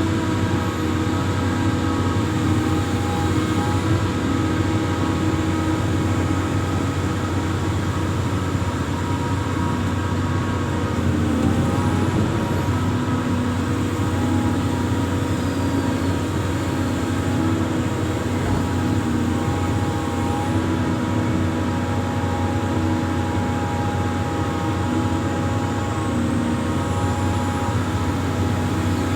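Amphibious excavator's diesel engine running steadily, with a slight shift in pitch now and then.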